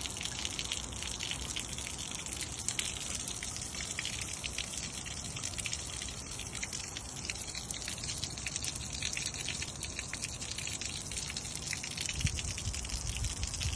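Water splashing and trickling in a steady crackle of small drips. A low rumble rises near the end.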